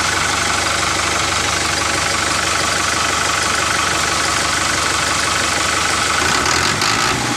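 Tractor engine running steadily at idle, with a fast, even chugging rhythm.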